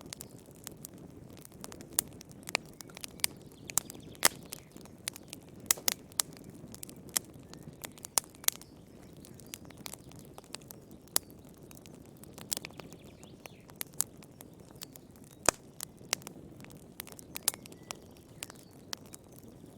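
Wood fire crackling: sharp, irregular pops and snaps, a few of them louder, over a soft low hiss of flames.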